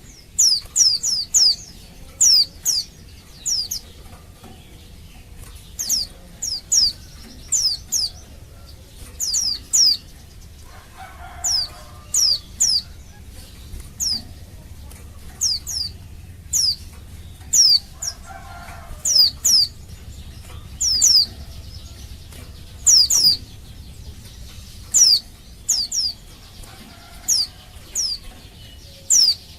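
Female white-eye (pleci) calling for a male: short, high notes that slide downward, given singly or in quick runs of two to four every second or two.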